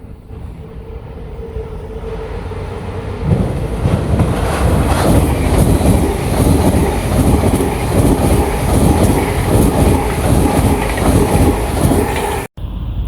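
A train passing on the main line, growing louder over the first few seconds and then loud and steady, with the clatter of wheels on the rails. The sound drops out for a moment near the end.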